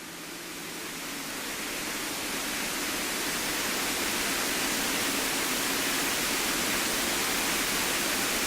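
Steady cockpit noise of a Cessna A152, its engine and airflow heard as an even hiss. The hiss swells over the first few seconds, then holds level.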